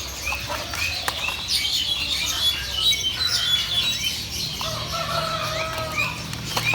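Many caged songbirds chirping and calling over one another, with short repeated chirps throughout and a longer, lower call starting a little past the middle.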